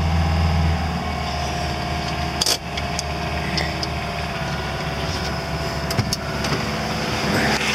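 Car engine running at idle, heard from inside the cabin; its deep note eases about a second in. A few sharp clicks sound over it, the clearest about two and a half seconds in.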